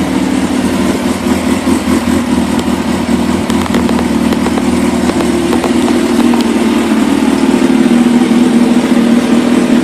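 2004 Suzuki GSX-R 1000's inline-four engine running steadily through a full titanium TiForce exhaust system. It gets slightly louder over the last few seconds.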